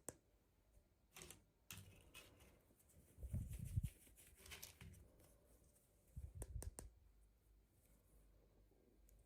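Quiet hand-handling noises from unboxing small toys: scattered light clicks and short rustles, with a dull bump about three and a half seconds in and another cluster of bumps and clicks around six and a half seconds in.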